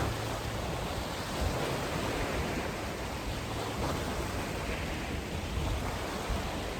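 Steady rushing noise of wind buffeting the microphone over lapping lake water, with a rumble at the bottom that rises and falls.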